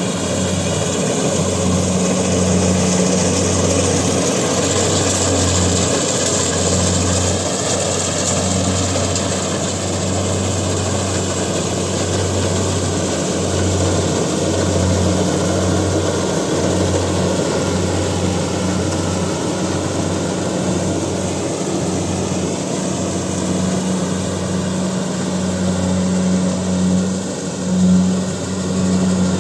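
Heavy diesel farm machine engine running steadily and loudly, its low drone pulsing slightly in level.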